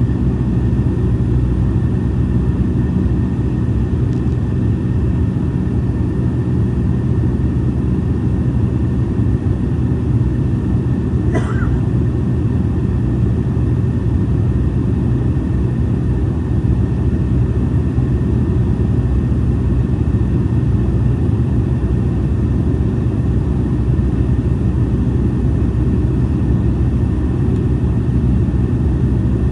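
Airliner cabin noise on approach: a steady low rumble of engines and airflow heard from inside the passenger cabin, with faint steady tones above it. A brief wavering sound about a third of the way in.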